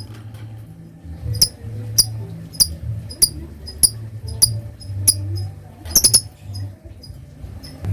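Lovebird giving sharp, high ticking chirps at an even pace, about one every half second, with a quick cluster of several about six seconds in. This is the clicky 'typing' call that comes before a long chattering trill. A steady low hum runs underneath.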